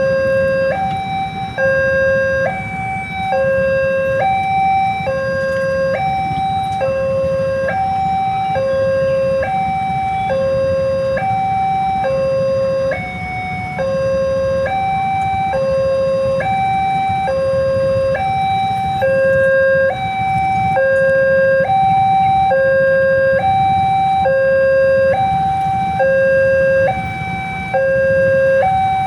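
Railway level-crossing warning alarm sounding a two-tone electronic chime, alternating steadily between a low and a high tone, the signal that a train is approaching and the crossing is closed. A steady low rumble runs underneath.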